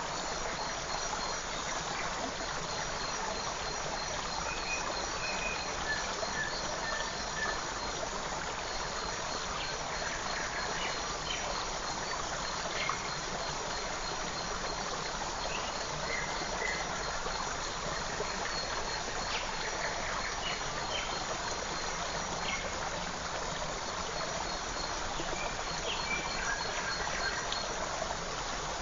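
Forest creek running steadily, with faint scattered bird chirps and a thin, high, continuous chirping trill over the water.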